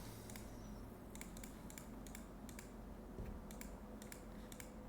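Faint, irregular clicking of computer keyboard keys, a dozen or more clicks spread unevenly over a few seconds.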